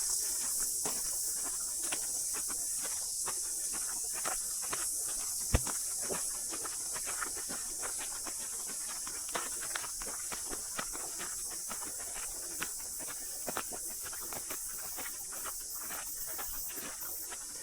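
Steady high-pitched chorus of cicadas in native bush, with footsteps on the walking track about twice a second.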